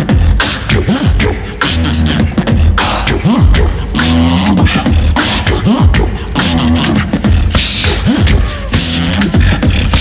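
Live human beatboxing by a tag team of two: mouth kick drums and snares in a steady groove, under low swooping bass sounds and short pitched vocal phrases that repeat every couple of seconds.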